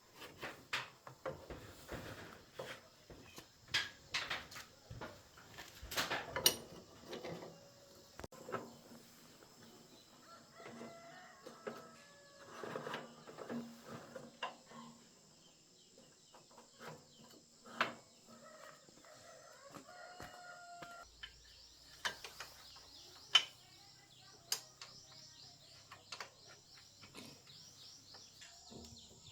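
Scattered sharp clinks and knocks of hand tools on metal, with chickens clucking and calling in the background. From about two-thirds of the way in, a fast, high-pitched pulsing buzz joins in.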